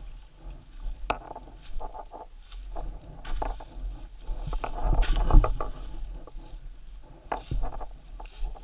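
Irregular rustling and snapping of twigs and branches in forest undergrowth, loudest about five seconds in, over a low steady rumble.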